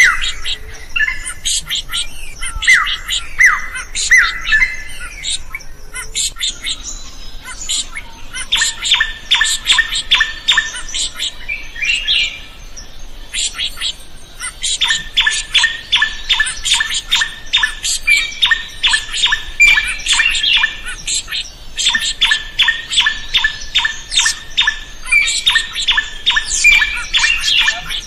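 Drongo (srigunting) singing: a few slurred whistled notes, then long rapid runs of repeated sharp notes at about four a second, broken by short pauses.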